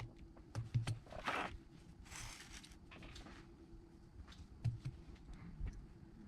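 Light clicks and two short scraping rustles of small tools and phone parts being handled and moved on a workbench, over a faint steady hum.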